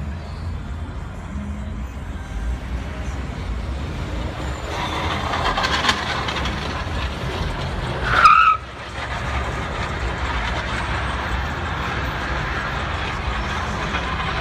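Steady road and engine rumble of a car driving, as picked up by a dashcam. Just past the middle, a loud, brief squeal that glides upward cuts off suddenly.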